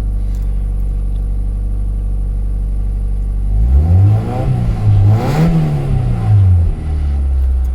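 Mazda Miata's four-cylinder engine with a Racing Beat exhaust, idling cold, then revved gently: the pitch rises in two steps about four to five seconds in and drops back to idle about seven seconds in. It is kept to a low rev because the engine hasn't warmed up.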